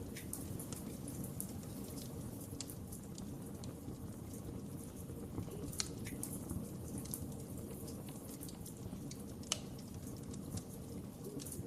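Wood fire in a fireplace crackling: a steady low rumble with scattered sharp pops, the loudest one about three-quarters of the way through.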